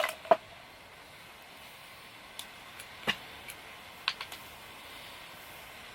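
A sharp knock near the start, then a wood fire crackling: scattered sharp pops over a faint steady hiss.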